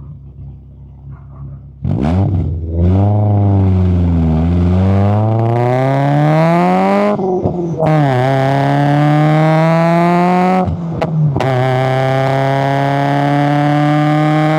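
Toyota AE86 Corolla Levin's 1.6-litre 4A-GE twin-cam four-cylinder idling low, then about two seconds in pulling away hard. Engine speed climbs, drops at an upshift about seven seconds in, climbs again, drops at a second upshift about eleven seconds in, then rises steadily.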